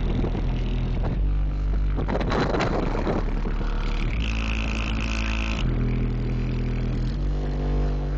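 Bass-heavy music played loud through a truck's wall of four 15-inch Digital Designs 500-series subwoofers, the deep bass notes shifting every second or so. A noisy burst cuts across it about two to three seconds in.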